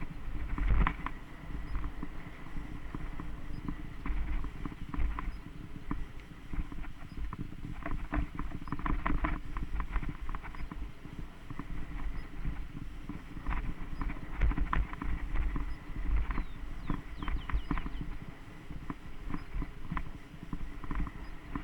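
Mountain bike rolling over a rough dirt trail: irregular rattling and clicking from the bike over a steady low rumble.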